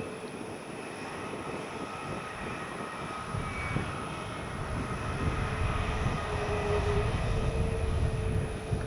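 Jet aircraft engines: a steady whine over a low rumble that grows louder from about three seconds in.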